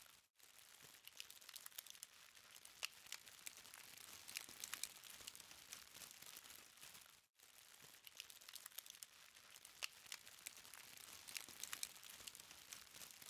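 Burning charcoal crackling softly: a faint hiss dotted with many small sharp ticks and pops at irregular intervals. The sound cuts out briefly twice, just after the start and about halfway through.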